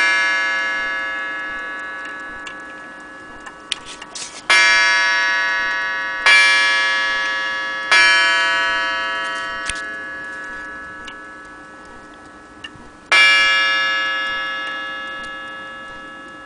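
A French mantel clock's strike bell rung five times at uneven intervals, two of them in quick succession, each stroke ringing out and fading slowly. A few faint clicks from the clock's movement can be heard between strokes.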